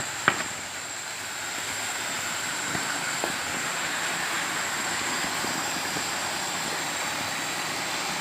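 Water running steadily, making an even rushing noise, with a couple of sharp knocks in the first half-second.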